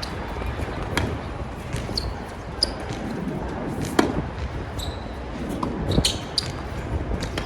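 Tennis ball rally: sharp racket strikes and ball bounces, the loudest about a second in, at four seconds and at six seconds, with short high squeaks between. Strong wind rumbles on the microphone throughout.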